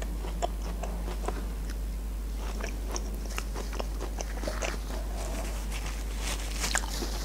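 A person chewing a mouthful of burger with shredded cabbage: small wet mouth clicks and light, scattered crunches.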